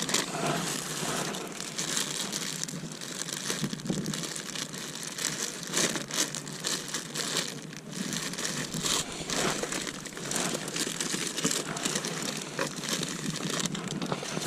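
Continuous rustling and crinkling, like bags and items being handled, with scattered small clicks.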